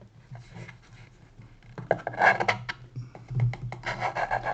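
Pencil scratching along the wood as a layout line is drawn for an angled dovetail, with small taps and knocks as the workpiece and marking guide are handled. The loudest spell comes about two seconds in, followed by a run of quick short scrapes near the end.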